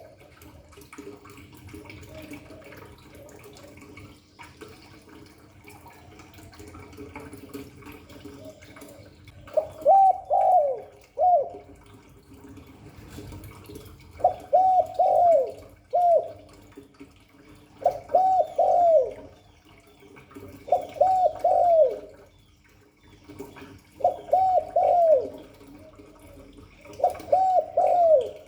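Spotted dove cooing: short phrases of three or four notes, repeated about every three to four seconds. The phrases start about ten seconds in, after a stretch of only faint low background.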